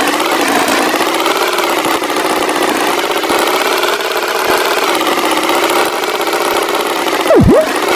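Tractor engine sound effect running steadily, its pitch wavering slightly. Near the end a brief, loud effect swoops down in pitch and straight back up.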